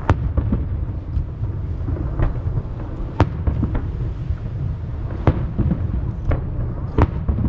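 Aerial firework shells bursting over the sea. Several sharp bangs, the loudest at the start, about three seconds in and near the end, ring out over a continuous low rumble of echoes rolling back from the surrounding mountains.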